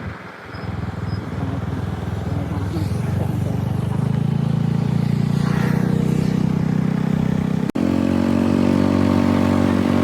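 A small engine running steadily, growing louder over the first few seconds; it breaks off for an instant about three-quarters of the way through and carries on at a higher pitch.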